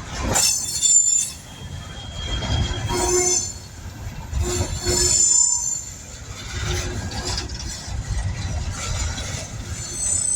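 Coal train's freight cars rolling past with a steady low rumble, the wheels squealing on the rails in high, thin tones that come and go several times.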